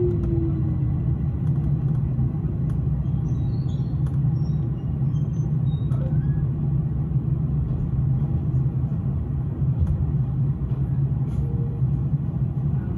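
S-Bahn electric commuter train running along the track: a steady low rumble of wheels and running gear, with a brief falling whine right at the start and a few faint high squeaks a few seconds in.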